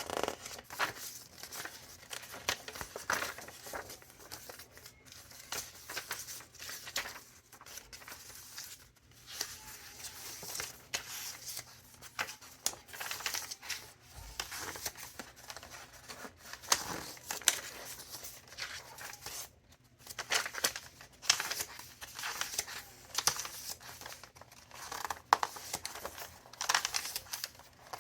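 Paper pages of a thick handmade junk journal being turned by hand, rustling and crinkling in irregular swishes.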